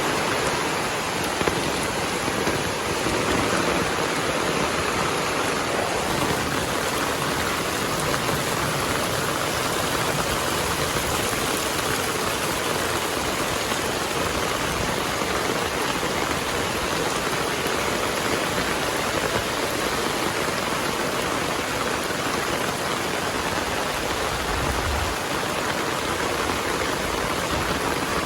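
Heavy rain falling steadily, a dense, even hiss of drops on surfaces that holds constant throughout.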